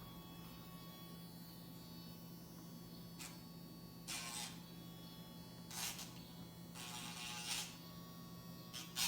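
Casfuy electric dog nail grinder running with a steady buzzing hum while it files a dog's nails, with about five short, louder hissing bursts.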